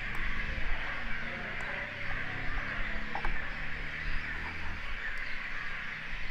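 Steady hiss of microphone background noise, with a few sharp single clicks a second or two apart from a computer mouse.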